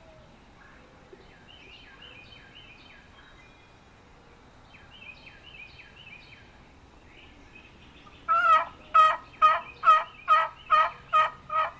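A turkey box call worked by hand in a loud, evenly spaced series of about nine notes, roughly two or three a second, beginning about two-thirds of the way through. Before it, faint falling calls are heard in the distance.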